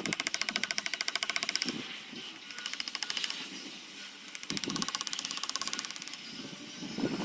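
A small tool's mechanism ticking fast and evenly in two bursts, one at the start and one about four and a half seconds in, with a few dull knocks between them.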